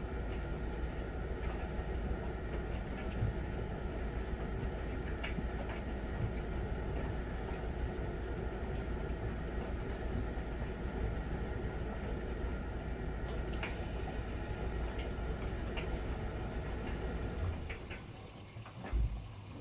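Miele Novotronic W921 front-loading washing machine in its wash phase, the drum turning the laundry with a steady rumble and small scattered clicks. Near the end the drum stops briefly, there is a short thump, and then it starts turning again, as in the machine's alternating wash rhythm.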